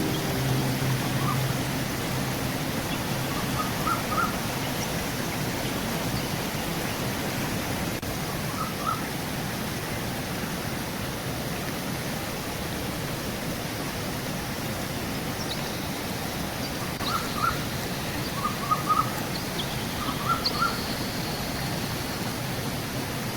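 Steady rush of river water with small birds chirping in short clusters of notes, scattered through and more often in the second half. A low musical tone fades out in the first second or so.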